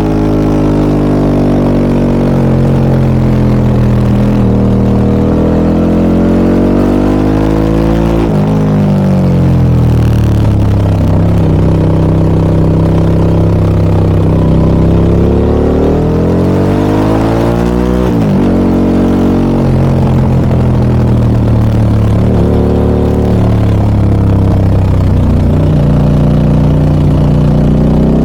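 Harley-Davidson Pan America 1250 Special's Revolution Max 1250 V-twin running through an aftermarket Scorpion muffler under way: the engine note climbs under acceleration and drops sharply at gear changes about eight and eighteen seconds in, then holds a steady cruise.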